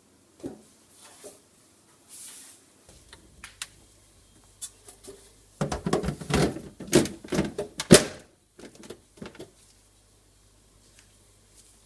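Plastic knocks and clatter as a fridge door shelf is handled and slotted into the fridge door, busiest for a few seconds in the middle, with a low steady hum underneath.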